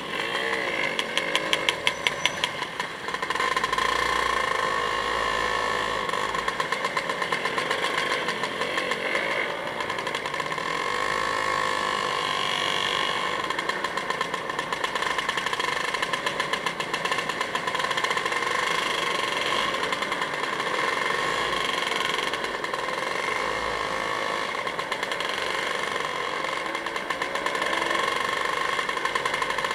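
A vehicle engine running steadily, its pitch rising and falling a few times as the revs change.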